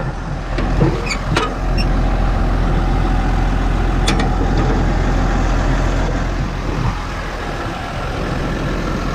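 New Holland 6080 tractor's diesel engine running steadily at idle, with a few clicks in the first second and a half and one sharp click about four seconds in.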